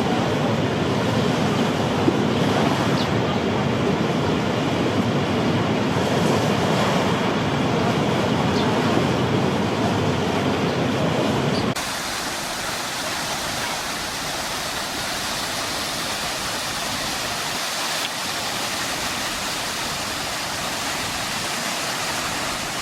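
A steady rushing noise, deep and dense, that cuts abruptly about twelve seconds in to a quieter, higher hiss.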